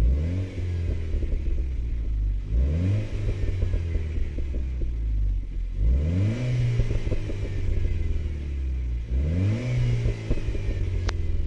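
Renault Clio RS 200 EDC's 1.6-litre turbocharged four-cylinder, heard from inside the cabin through an exhaust with the resonator removed, revved four times from idle while standing still. Each rev rises and drops back, with crackling pops as the throttle is released.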